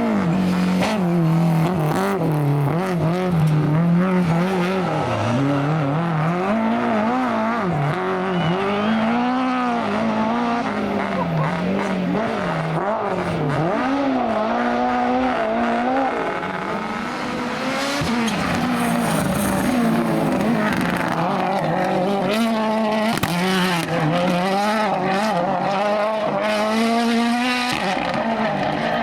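A rally car's engine driven hard, its pitch rising and falling over and over as it revs up and drops back through the gears, with a brief drop in loudness about halfway through.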